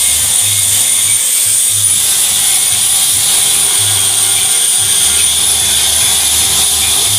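A power tool runs with a steady high-pitched whine, with background music and its deep bass line underneath.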